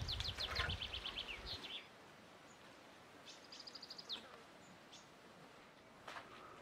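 A small songbird singing twice, each time a rapid series of short, high, falling notes. A low rumbling noise underlies the first second and a half and stops abruptly.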